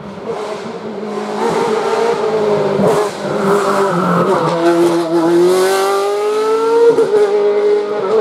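Racing car engine at high revs on a hill-climb course. About halfway through the revs drop, then climb steadily as the car accelerates away.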